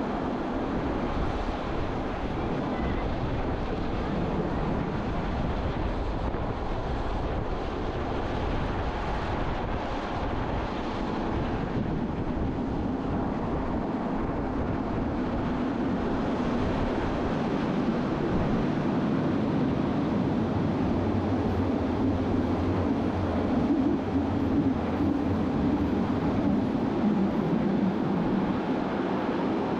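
Steady rumble of a train running on the rails, with rushing air, heard from an open observation carriage; a low hum grows stronger about two-thirds of the way through.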